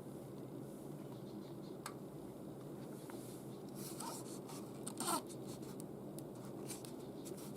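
Light rubbing and scattered small clicks of things being handled, over a steady low hum, with one louder scrape about five seconds in.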